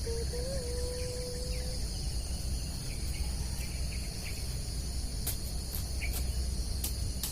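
Steady high-pitched chorus of crickets and other insects, with a low rumble underneath. A thin wavering whine fades out about two seconds in, and a few sharp clicks come in the second half.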